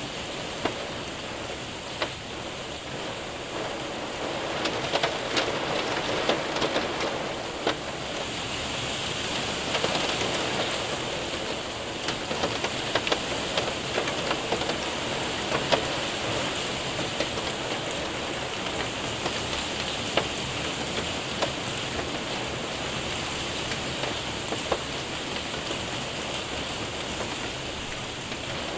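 Steady rain with hail pattering and ticking on a window and roof, scattered sharp hailstone hits standing out from the even rush of rain.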